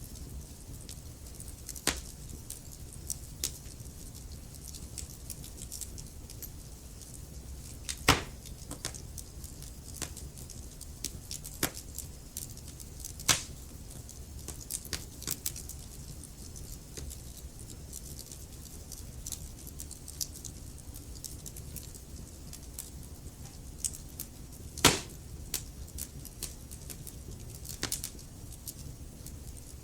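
Wood fire crackling in a fireplace: irregular sharp pops and snaps over a low steady rumble, with a few much louder pops spread through.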